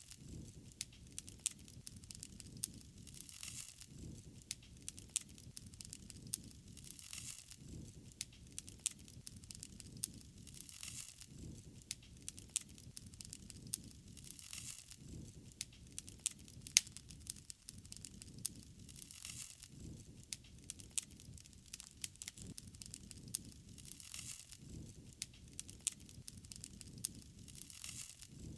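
Wood fire burning: a steady crackle of small sharp pops over a low rumble of flames, with a soft hiss that swells about every four seconds. One louder pop comes about halfway through.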